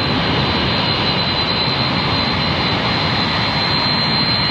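Jet airliner engines running: a steady, dense rush of noise with a thin high whine held on top.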